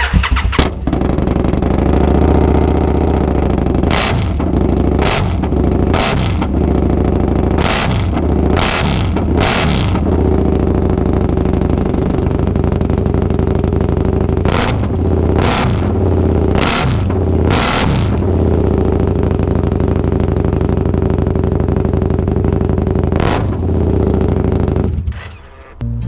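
Husqvarna Nuda 900 parallel-twin motorcycle engine started, idling and revved in a series of short throttle blips, then switched off near the end. Its exhaust has small holes that the owner takes for the leak changing its sound.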